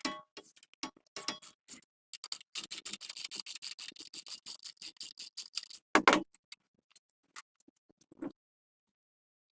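A quick run of sharp clicks, then one louder knock about six seconds in, followed by a few scattered clicks before it goes still.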